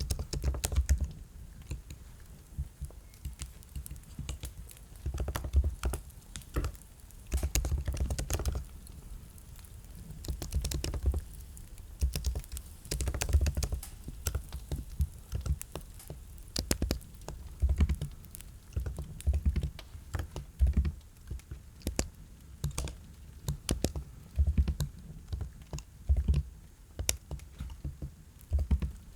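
Computer keyboard typing: runs of quick keystrokes with short pauses between them, each key a sharp click over a low thud.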